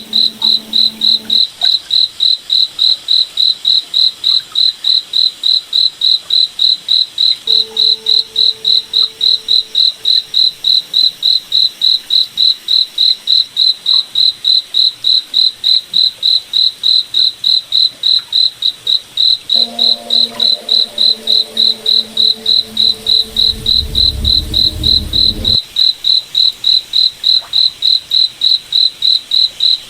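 Crickets chirping in a steady, even rhythm of about three high chirps a second. A lower hum comes and goes underneath, swelling with a deeper rumble a few seconds before the end.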